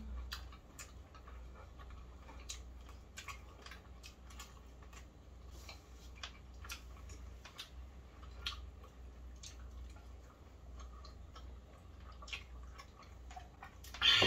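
Eating sounds from fried chicken being chewed: scattered soft crunches and wet mouth clicks at an irregular pace, with a louder crunch right at the end.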